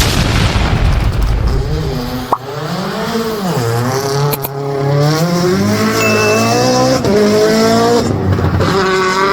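Race car engine accelerating hard, its pitch climbing and then dropping back at each gearchange, several times over. A low rumbling noise comes first, for about two seconds.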